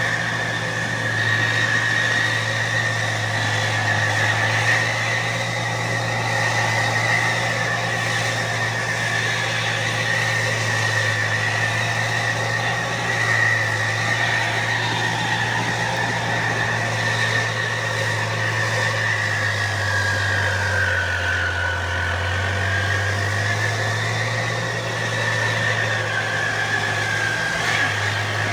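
Fiat 640 tractor's four-cylinder diesel engine running steadily while plowing, its exhaust note accompanied by a steady high whine. About two-thirds of the way through, the engine note drops in pitch for a few seconds as it lugs under load, then picks back up.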